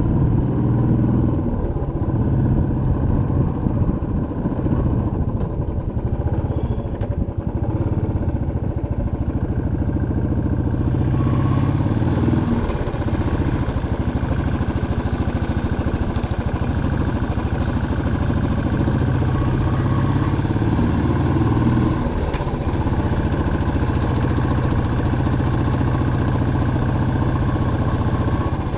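Motorcycle engine running steadily while riding, its note shifting up and down a little with the throttle.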